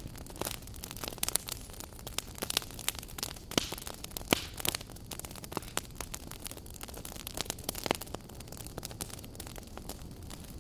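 Wood fire burning in a fireplace, with many sharp irregular crackles and pops over a steady low rumble of the flames.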